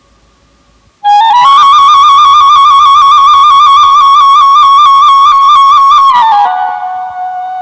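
Background music: a solo woodwind instrument plays a loud melodic line with a fast, wavering ornament, starting about a second in. Near the end it drops to a lower held note that fades.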